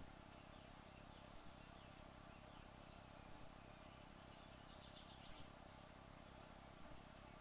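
Near silence: a faint steady hiss with soft, high pulsed chirping, clearest a little after four seconds in.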